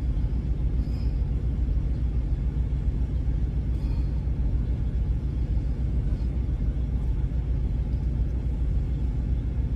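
Steady low rumble of an idling truck engine, with a couple of faint light clicks about a second and four seconds in.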